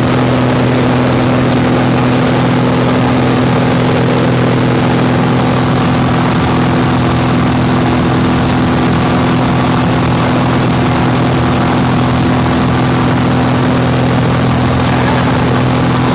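Small propeller airplane's piston engine running steadily in flight, a constant drone.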